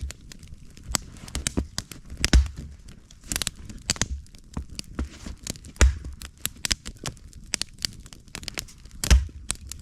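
Wood fire crackling and popping in irregular sharp snaps, with a few heavier low thumps about two seconds in, near six seconds and near nine seconds.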